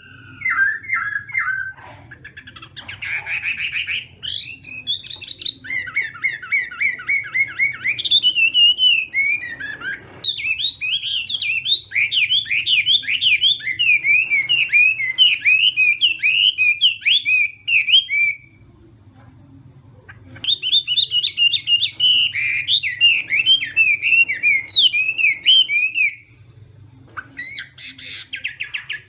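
Chinese hwamei singing a long, loud song of varied whistled phrases, many made of rapid runs of the same note repeated. It breaks off for about two seconds after 18 seconds and briefly again near the end.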